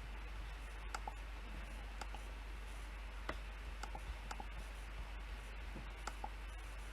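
Scattered clicks of a PC keyboard and mouse, about a dozen at irregular gaps, some in quick pairs, over a steady low hum.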